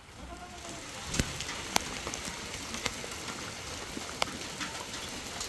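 Rain falling steadily, with a few sharp taps of single large drops striking a nearby surface.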